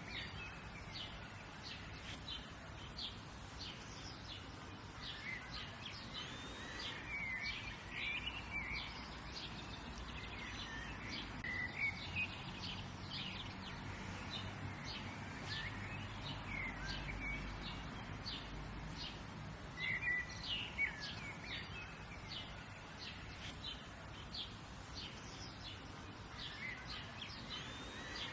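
Birds chirping and calling, many short quick notes in loose clusters, over a steady low background noise.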